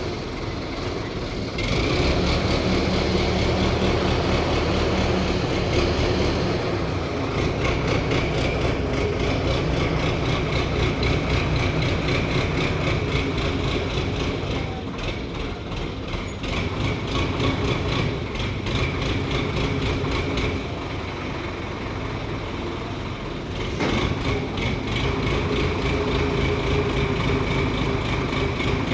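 Heavy engine running steadily, getting louder about two seconds in, easing off for a few seconds around twenty seconds and picking up again shortly after.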